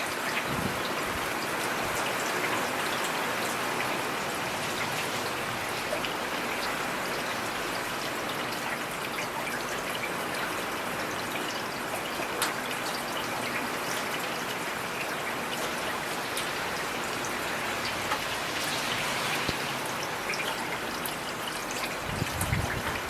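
Steady heavy rain, an even hiss with sharp ticks of drops hitting hard surfaces close by, and a short low rumble near the end.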